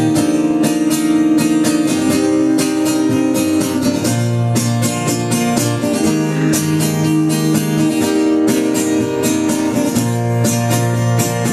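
Acoustic guitar strummed steadily in a country song, playing the instrumental break between a chorus and the next verse.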